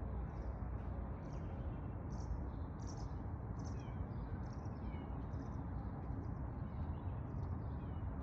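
High, short chirps of a small bird, repeated about twice a second, over a steady low background rumble.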